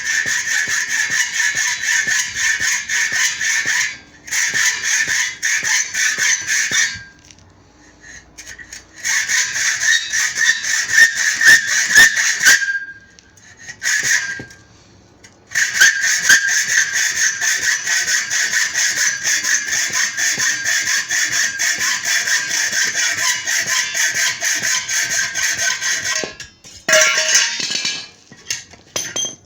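Metal window-frame stock being cut in the workshop: a loud, rasping cutting noise that runs in stretches, stopping briefly about four seconds in, for a couple of seconds around seven seconds, for about three seconds around thirteen seconds and again near the end.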